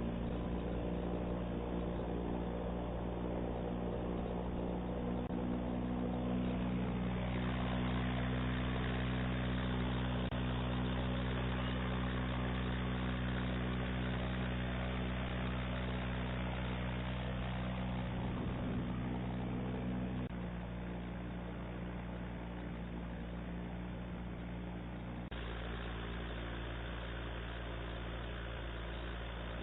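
Engine and air propeller of a homemade airboat running steadily. It grows a little louder about six seconds in and eases back down around twenty seconds.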